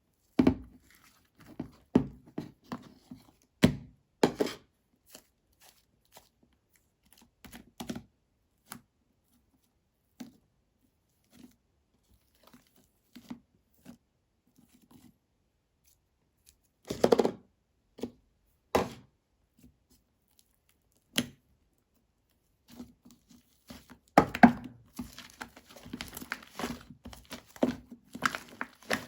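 Slime with clay mixed in being pressed and kneaded by hand: scattered sticky pops and crackles, with a denser run of crackling near the end.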